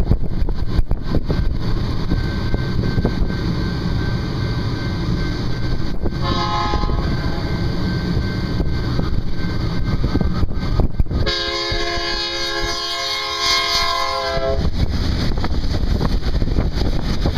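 Diesel locomotive horn sounding a multi-note chord: a short blast about six seconds in, then a longer blast of about three seconds near eleven seconds in, over a steady low rumble of the passing train.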